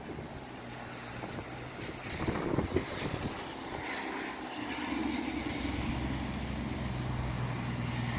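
Gusty wind buffeting the microphone, with gusts peaking a couple of seconds in. About halfway through, a steady low engine hum from a motor vehicle comes in and keeps running under the wind.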